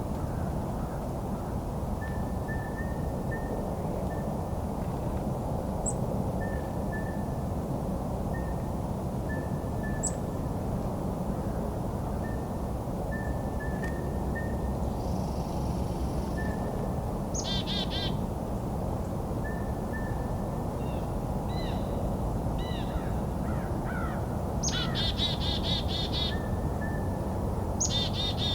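Wild birds calling: a short, flat note repeats every second or so, and a few louder, harsh calls come about two-thirds of the way in and again near the end, over a steady low rumble.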